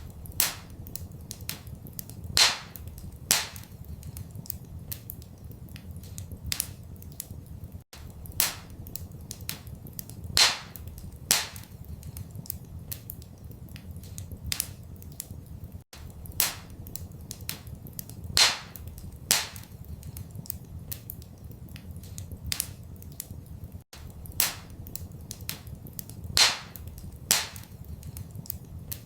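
Wood fire crackling and popping, several sharp pops a second or two apart, over a steady low rumble. The same short stretch repeats about every eight seconds, with a brief dropout at each repeat.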